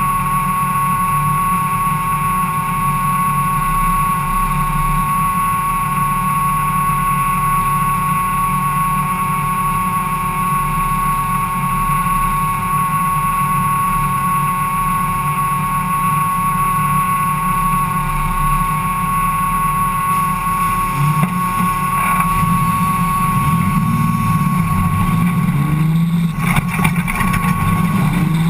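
Ford Cortina race car's engine idling, heard from inside the cabin, with a steady high whine over it. From about 21 seconds in, the revs rise and fall as the car pulls away onto the dirt track.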